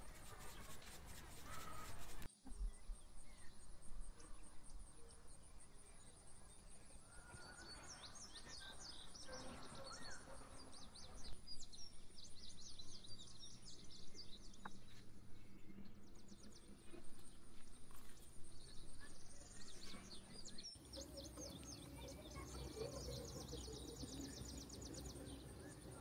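Birds chirping and trilling in quick runs over faint open-air background noise.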